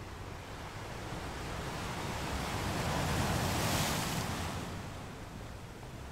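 Sea wave washing in, a rush of surf that swells to a peak about two-thirds of the way through and then dies away, over a faint low steady hum.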